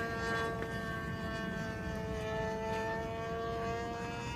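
Small fuel-burning engine of an RC sport model airplane in flight, a steady high buzz with its propeller, the pitch sinking slowly as the plane flies past.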